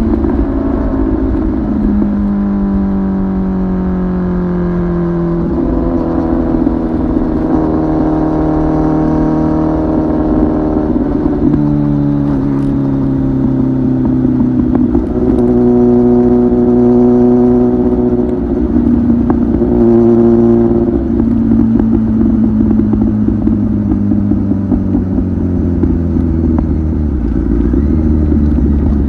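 Kawasaki ZX-10R inline-four engine running through an aftermarket titanium muffler while riding. Its pitch slides down and back up several times, with sudden shifts in note as gears change.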